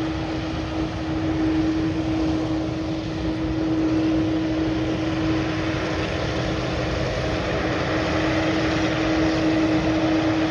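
Boeing 787-8 Dreamliner's jet engines running at taxi power: a steady rumble with one constant humming tone through it.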